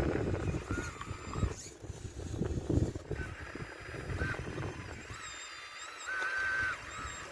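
RC model excavator's motor whining in short spurts, rising, holding and dropping in pitch as the machine works, with one longer whine near the end. Rough clatter and knocks of stones being scraped and tumbled, mostly in the first half.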